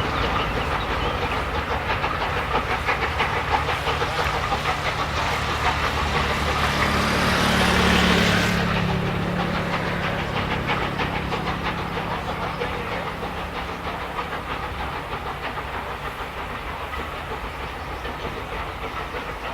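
Steam-hauled train passing, its wheels clicking steadily over the rail joints. It grows louder to a peak about eight seconds in, where a hiss of steam cuts off sharply, then slowly fades as the train moves away.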